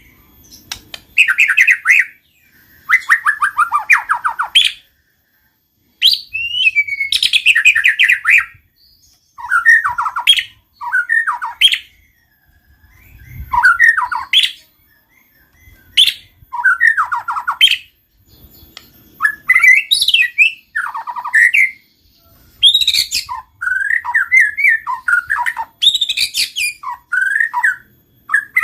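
White-rumped shama (murai batu) singing loudly in a run of short, varied phrases, about a dozen of them, many sweeping down in pitch, each a second or two long with brief pauses between.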